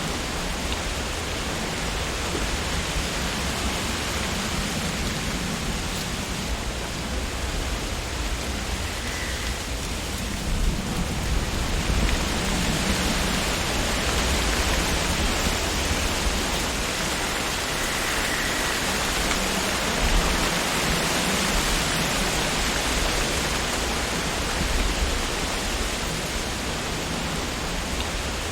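Wind blowing through tree leaves, a steady rustling hiss with a low rumble, swelling stronger for a while in the middle.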